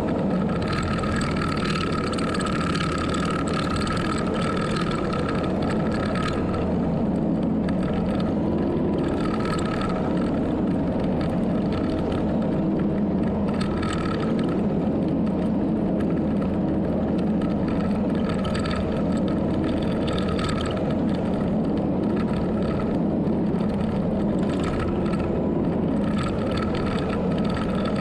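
Heavy earthmoving machine's engine running steadily, with a high whine that comes and goes every second or two.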